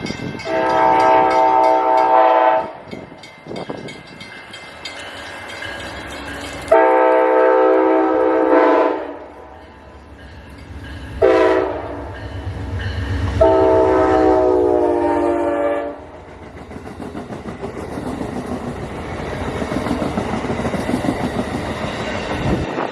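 Amtrak train's multi-chime air horn sounding long, long, short, long, the grade-crossing warning signal, then the train passing with a steady rumble and clatter of wheels on rail.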